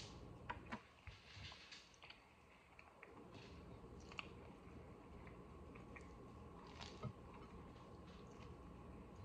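A person chewing a bite of soft flour-tortilla taco: faint chewing with a few small, sharp mouth clicks, one about half a second in and another about three-quarters of the way through.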